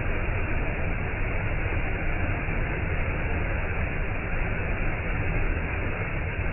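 Waterfall: a steady, even rush of falling water, heavy in the low end.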